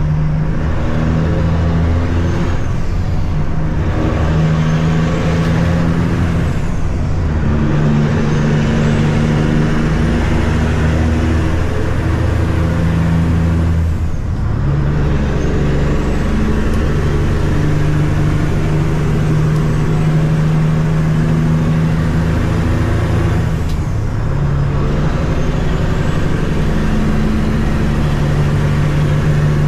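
Peterbilt 379 semi truck's turbocharged diesel engine pulling under load and shifting up through the gears several times. A high turbo whistle dips at each shift and climbs back as the engine pulls again.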